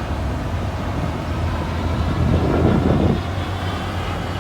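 T-33 Shooting Star's Allison J33 jet engine heard at a distance as a steady rumble, swelling louder about two to three seconds in.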